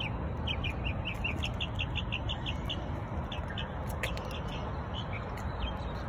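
A songbird calling a rapid series of short, high chirps, about five a second, then a few more spaced-out notes after a short pause, over a steady low background rumble. A single sharp click sounds about four seconds in.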